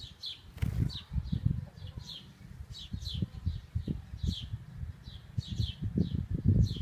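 Small birds chirping over and over, short falling high notes two or three times a second, with irregular low rumbling thuds underneath.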